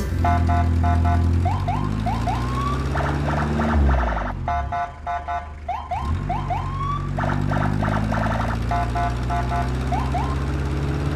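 A vehicle engine hum with an electronic alarm-style siren over it: rapid pulsing beeps and short rising chirps. The pattern runs twice, with a lull about halfway through.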